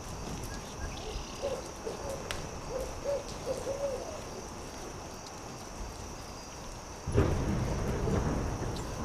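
An owl hooting, about five short hoots in quick succession, over the faint ticking of a crackling campfire. About seven seconds in, a sudden low rumble sets in and stays louder.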